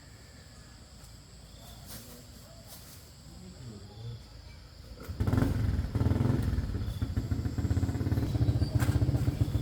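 A small engine starts running about five seconds in and keeps running steadily after a quiet stretch with faint sounds.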